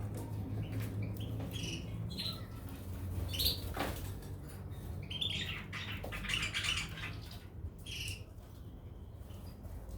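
Caged goldfinches and canaries giving short scattered chirps, with some wing fluttering, over a steady low hum.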